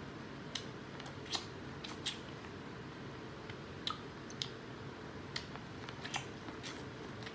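Close-up eating sounds: biting and chewing corn on the cob, a dozen or so irregular sharp crunching clicks from the kernels over a steady low background noise.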